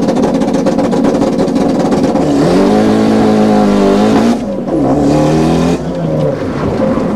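A car engine accelerating hard at high revs: its pitch climbs about two seconds in, drops sharply near the middle, then climbs again.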